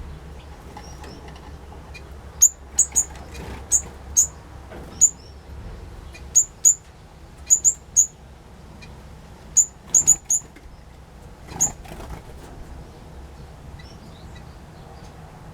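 Small aviary birds giving a string of short, sharp, high chirps, a dozen or more at irregular intervals, which stop a few seconds before the end.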